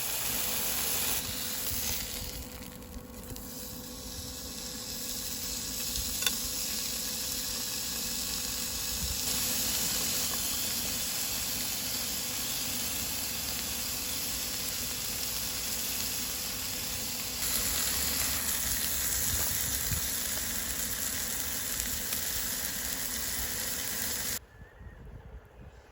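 Food sizzling as it fries, a steady hiss that cuts off abruptly near the end.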